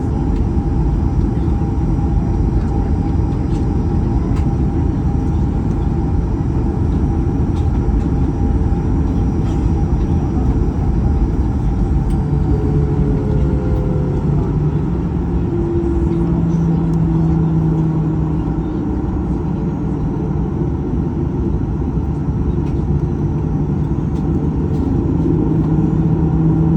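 Cabin noise inside a Boeing 737-800 near the front: a steady rumble from its CFM56-7B jet engines and airframe, with faint steady tones above it. From about halfway through, a low hum comes and goes.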